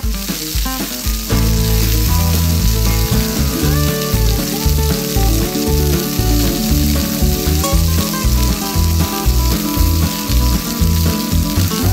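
Hot oil sizzling steadily in a small frying pan as noodle-crusted skewers deep-fry, with background music underneath.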